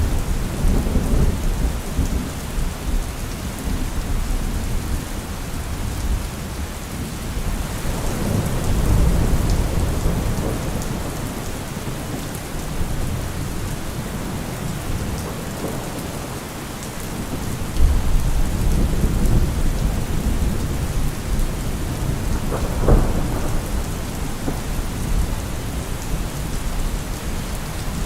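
Steady rain falling, with thunder rumbling low three times and a sharper thunderclap near the end.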